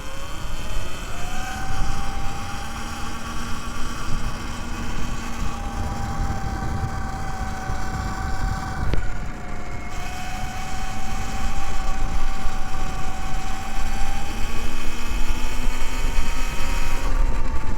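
Electric dirt bike's motor whining as it pulls away and cruises, its pitch rising in the first second, holding steady, dipping briefly about nine seconds in and climbing again near the end, over a steady low rumble.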